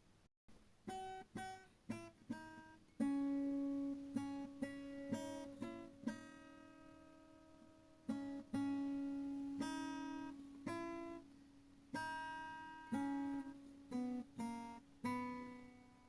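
Acoustic guitar music: single notes and chords plucked one after another, each ringing and fading.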